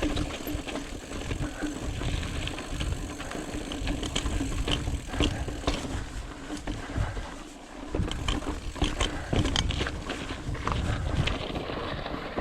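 Ibis Ripley full-suspension mountain bike being ridden over rough, rocky trail: a constant low rumble of tyres and wind on the microphone, with frequent clicks and rattles from the bike. The noise drops briefly a little past halfway.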